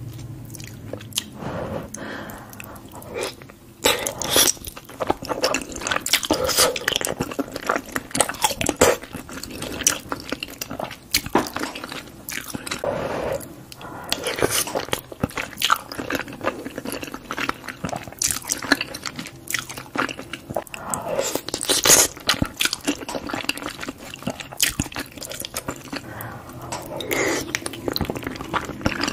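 Close-miked chewing of cheesy lasagna, with many quick wet mouth clicks and smacks.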